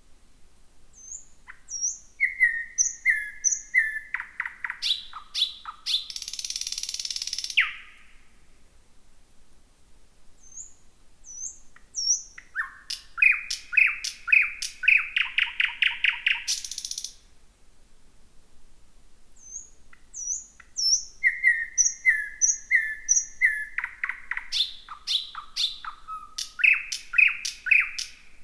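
Thrush nightingale singing at night, in three phrases separated by short pauses. Each phrase strings together high short notes, runs of repeated whistled notes, rapid clicking series and a harsh rattle.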